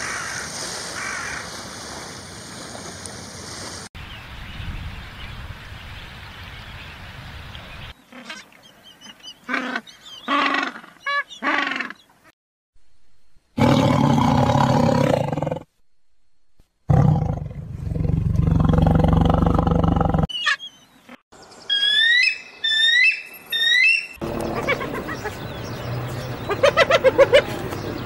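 A run of short, abruptly cut clips of different animal calls, one after another. A tiger's loud roaring growl comes near the middle, and a run of repeated rising chirps follows a few seconds later.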